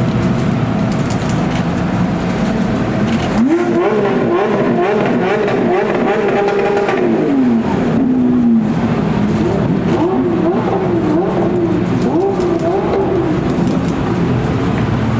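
A high-performance car engine running: its revs jump up about three and a half seconds in and hold there with small rises and dips, fall back to a lower note near the middle, then rise and fall again in short swells.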